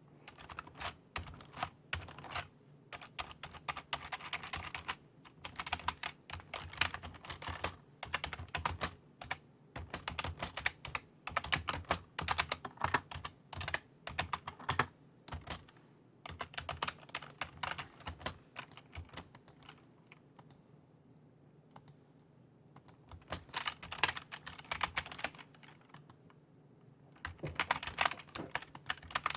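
Typing on a computer keyboard: rapid runs of key clicks in bursts of a few seconds, with a pause of about three seconds in the second half.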